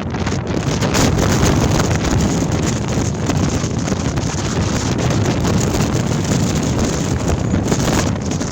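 Gale-force wind gusting hard against the microphone: a loud, steady rushing rumble with heavy low-end buffeting that swells and eases slightly.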